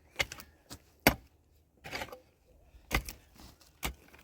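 A few sharp knocks, about a second apart, the loudest just after one second in, like blows of a tool on wood.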